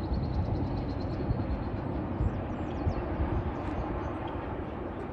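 Mixed freight train rolling past, a steady rumble of cars on the rails.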